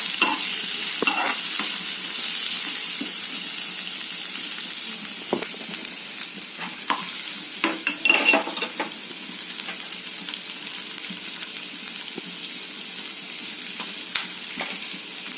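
Sliced onions, cashews and green chillies sizzling in a little oil in a non-stick kadhai, a steady hiss. A spatula stirs and scrapes the pan now and then, loudest about eight seconds in.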